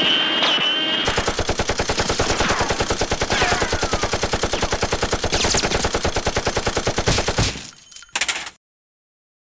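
Rapid automatic gunfire, about ten shots a second in a long steady burst. It stops abruptly about eight seconds in.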